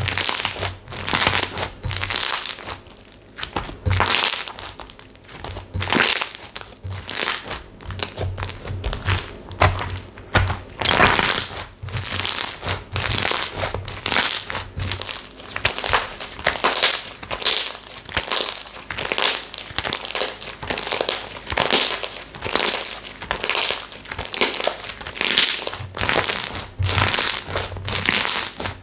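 Slime being squeezed and pressed by hand, giving repeated crackling, crinkling squishes at roughly one or two a second.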